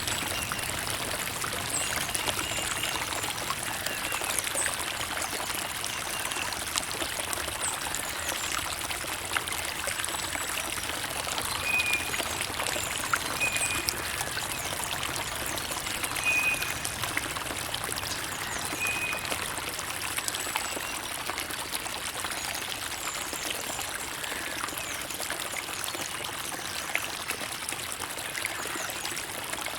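Creek water trickling and bubbling steadily. A few short, high chirps come through now and then.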